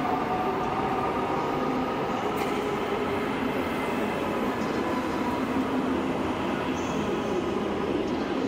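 Red DB Regio electric multiple unit rolling past along the platform: a steady rumble of wheels on rail, with a higher whine that fades out in the first couple of seconds.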